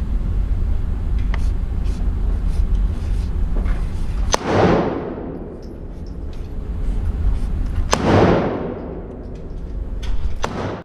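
Two 9mm pistol shots about three and a half seconds apart. Each is a sharp crack trailed by about a second of dying echo, over a steady low background rumble, with a couple of fainter clicks near the end.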